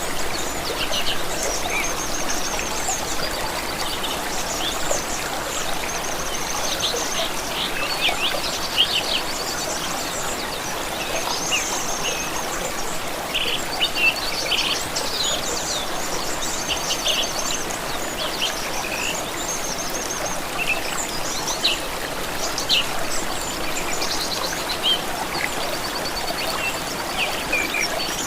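Stream water running steadily, with many small songbirds chirping and singing rapid trills over it.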